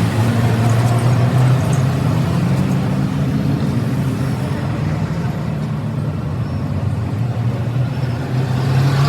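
A vehicle engine running steadily with a low hum, going rougher and less even through the middle before the steady hum returns near the end.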